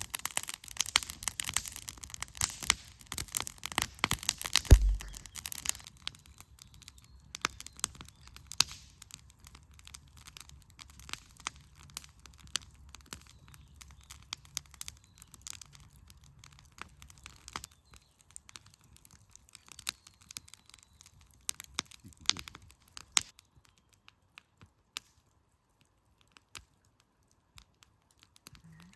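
Wood fire burning in a campfire pit, its firewood crackling and popping: dense, loud crackling for the first few seconds with one sharp pop about five seconds in, then thinning to scattered pops.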